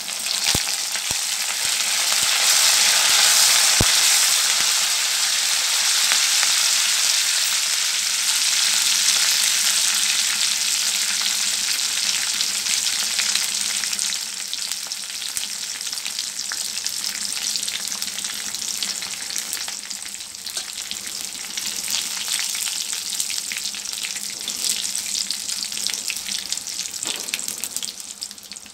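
Fresh curry leaves sizzling and crackling in hot oil with garlic, dried red chillies, cumin and mustard seeds, a tadka for a South Indian stir-fry. The sizzle is loudest in the first ten seconds or so after the leaves go in, then eases somewhat.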